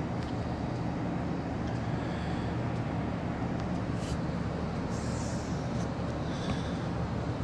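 Steady low machinery hum, engine-like and even throughout, with a few faint light clicks about four and five seconds in.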